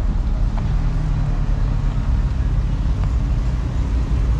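Low, steady rumble of a vehicle engine running, with a steady lower note coming in about a second in.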